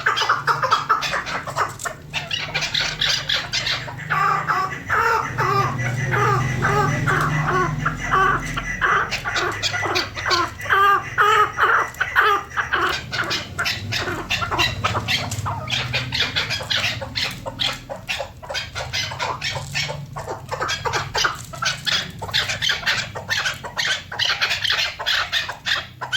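Chukar partridge calling: long runs of rapid repeated clucking chuck notes, several a second.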